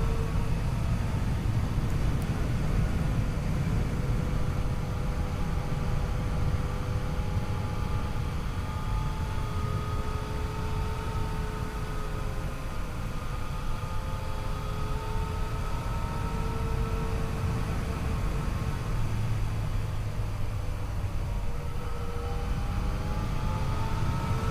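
Yamaha FJ-09's 847 cc inline-three engine running while the motorcycle is ridden, its pitch drifting gently and climbing near the end as the revs rise, over a heavy low rumble of wind and road noise.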